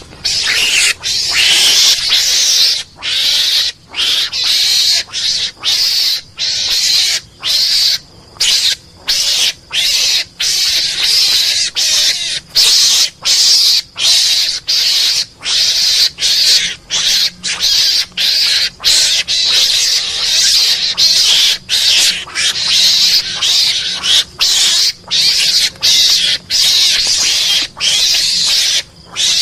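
Mongoose (garangan) lure call played back: harsh, hissing chatter calls repeated about one to two times a second, each separated by a short break.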